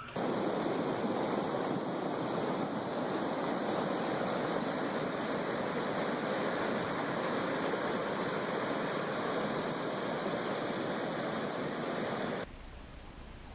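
Steady rushing noise like fast-running water, cutting off suddenly near the end.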